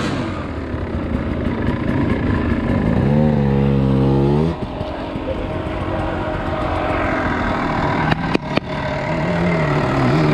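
Dirt bike engine running and revving over rough ground, held at steady high revs for about a second and a half before dropping off. A few sharp knocks come near the end.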